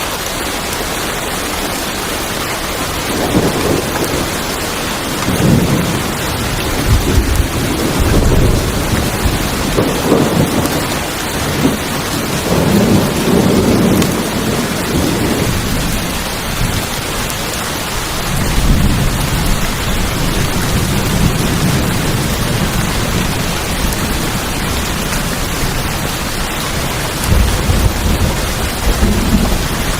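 Steady rain on a tin roof, with rolls of thunder rumbling low beneath it: a long one starting about three seconds in, another around the middle, and a shorter one near the end.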